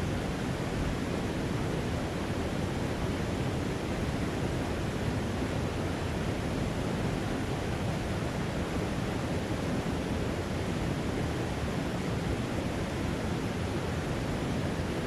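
Mountain creek rushing steadily, swollen with spring snowmelt runoff; an even roar of water with no breaks.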